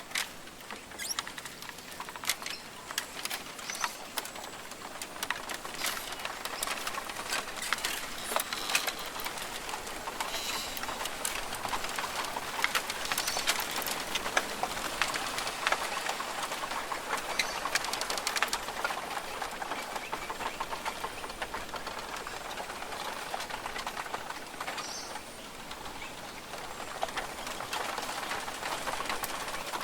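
Rainforest ambience: birds calling here and there over a steady hiss, with dense irregular crackling and ticking throughout.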